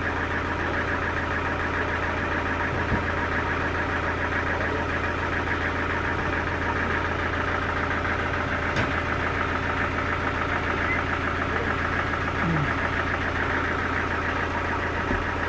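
A sawmill's engine running steadily at an even pitch, with a fast pulsing beat, and a couple of faint knocks, about three and nine seconds in.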